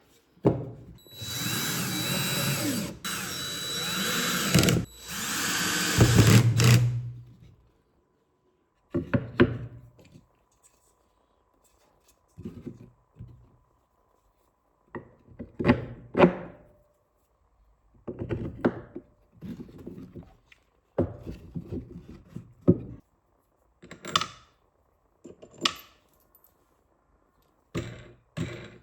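A handheld power tool runs in three bursts over the first six seconds or so. Then come scattered knocks and scrapes of plywood pieces being handled on the bench.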